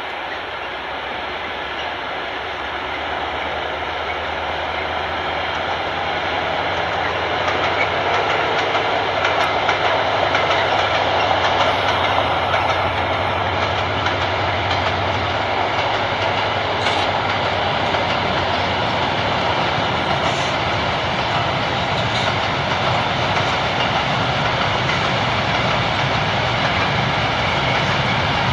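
Freight train of empty wagons hauled by a Stadler Eurodual locomotive, running past. It grows louder over the first several seconds as it approaches, then holds steady as the wagons roll along the track.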